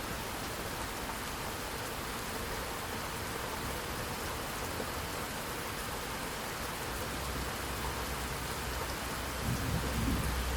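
Steady rain falling, with a low roll of thunder that builds in the second half and swells a little louder near the end.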